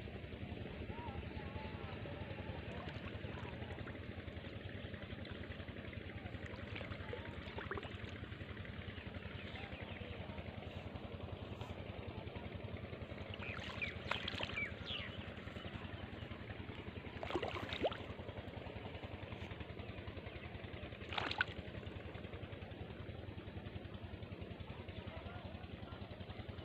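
An engine running steadily with a low, even hum, and a few short high calls or squeaks over it around the middle and about two-thirds of the way through.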